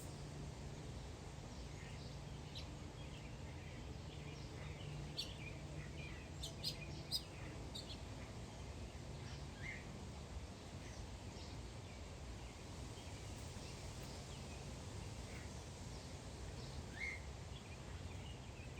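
Birds chirping in scattered short calls over a steady low background hum, with a quick run of sharp chirps or clicks about six seconds in.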